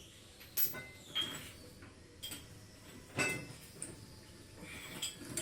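A few separate light metallic clinks and knocks, as of metal parts or tools being handled.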